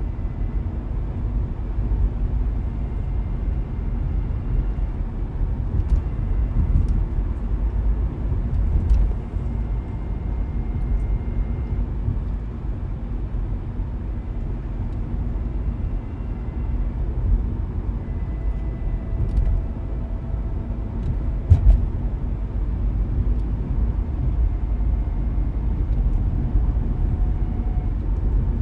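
Car being driven at a steady pace, with a constant low rumble of road and engine noise. A few light knocks break through it, the sharpest a little past two-thirds of the way in.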